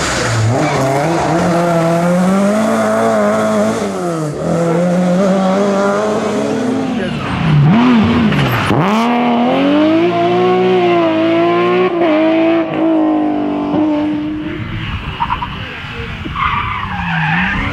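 Historic rally car engine revving hard, its pitch rising and dropping through gear changes and lifts as the car drifts through the stage, with tyre squeal. A sharp drop and climb in pitch about halfway through; the engine fades a few seconds before the end, then another engine builds up.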